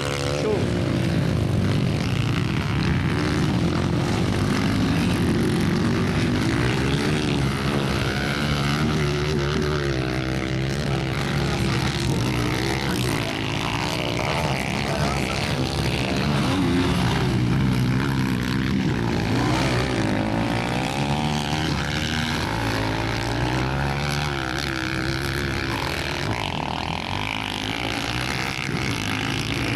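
Several motocross bike engines racing, their pitch rising and falling with throttle and gear changes, overlapping one another.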